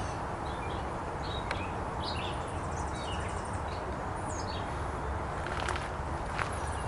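Songbirds chirping and whistling in short, scattered calls, one a quick high swoop, over a steady low rumble. The calls thin out after about four and a half seconds.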